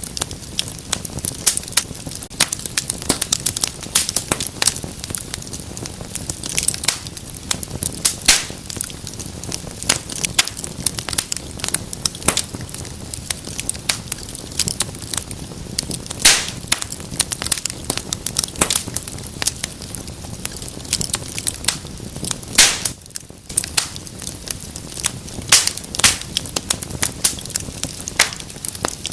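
Wood fire burning in a fireplace, crackling with frequent irregular sharp pops and snaps over a steady low hiss.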